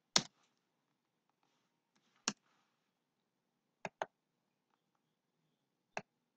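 Computer mouse clicking: a single click at the start, another a little after two seconds, a quick double click near four seconds and one more near the end, with near silence between.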